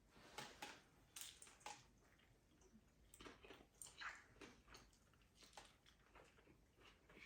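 Faint, irregular mouth sounds of chewing a consommé-dunked birria taco: soft wet smacks and small clicks.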